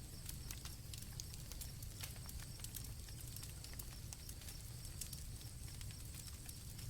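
Campfire crackling with frequent, irregular sharp pops over a low steady rumble, and crickets trilling steadily and faintly high above it.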